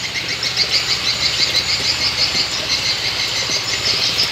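Small birds chirping in a rapid, high-pitched trill of many short repeated notes, with a faint low hum underneath for the first couple of seconds.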